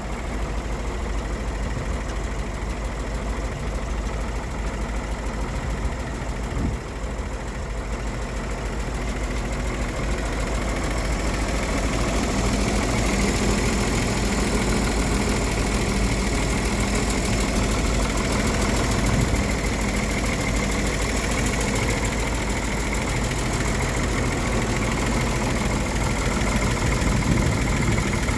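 Later-model 292 inline-six engine in a 1954 GMC 250 truck idling steadily, growing a little louder about ten seconds in.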